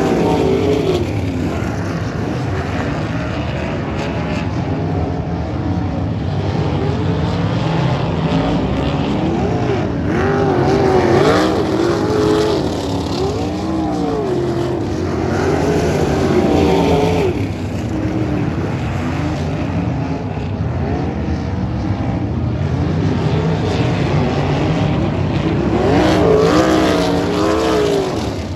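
Sprint car engines racing around a dirt oval, several at once, their pitch rising and falling again and again as the cars pass and come off the turns. The loudest passes come around a third of the way in, just past the middle, and near the end.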